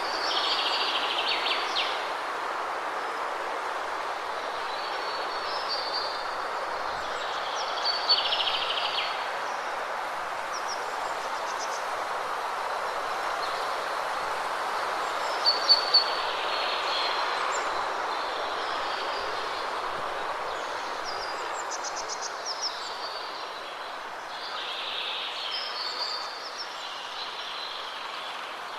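Waterfall rushing steadily, with birds chirping every few seconds over it, including a few sharp short notes about halfway through.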